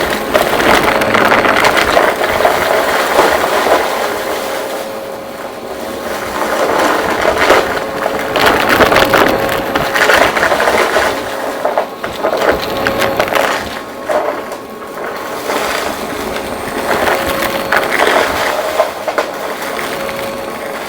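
Vacuum cleaner running with a steady motor whine while crunchy debris crackles and rattles as it is sucked up; the crackling swells and fades every few seconds.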